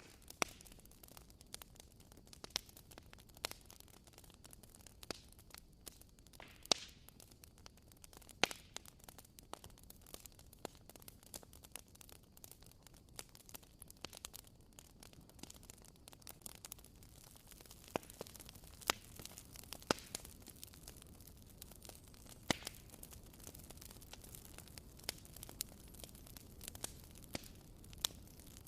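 Wood fire burning quietly, with irregular sharp crackles and pops from the burning wood over a soft steady hiss.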